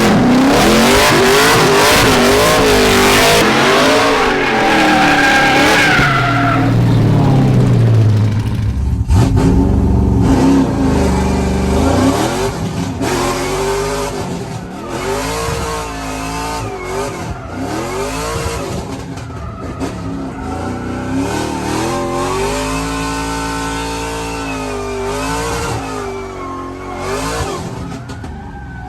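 BMW drift car being driven hard: the engine revs rise and fall over and over, with tyres squealing and skidding loudly for the first several seconds before the sound eases off a little.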